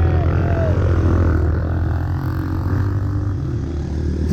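Trail motorcycle engine running steadily at low revs.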